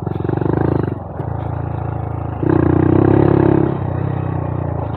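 Honda Monkey 125's single-cylinder engine running under way on a dirt trail. It picks up twice: briefly at the start, then again for about a second midway, before settling back.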